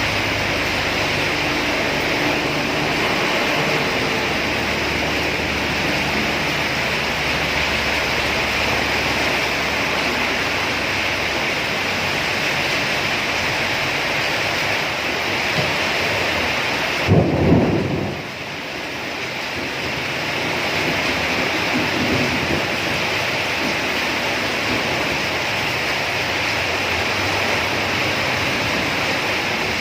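Steady heavy rain, with a low rumble through the first part. About halfway through comes one loud low thump, after which the rain sounds briefly duller and quieter.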